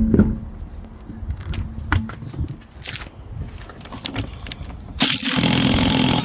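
Scattered clicks and knocks of tools being handled, then about five seconds in a power tool runs loudly for just over a second.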